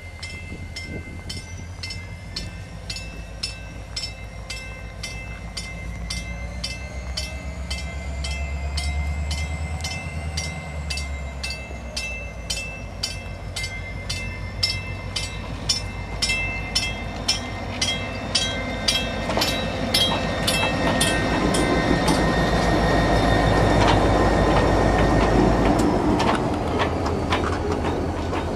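EMD SD40-2 diesel locomotive approaching and passing, its engine rumbling low and its bell ringing steadily at about two to three strikes a second. The bell stops about three-quarters of the way through, and heavyweight passenger coaches roll by with clicking wheels.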